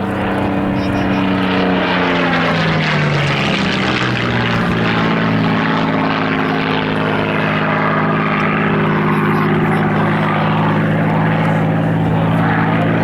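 Propeller aircraft engine in a display flypast. Its drone drops in pitch over the first few seconds as the plane passes, then holds a steady note.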